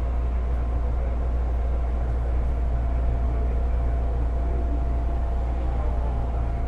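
Running sound of a 205-series electric train motor car with MT61 externally-ventilated traction motors, moving at a steady speed: a steady deep rumble of wheels on rail with a thin, even whine from the motors and gears.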